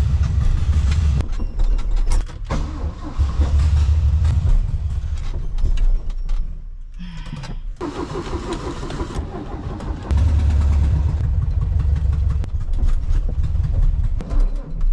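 Air-cooled Volkswagen Beetle engine revved repeatedly by pumping the accelerator, rising to loud runs and falling back to a lower running between them. The sound drops out briefly about halfway through.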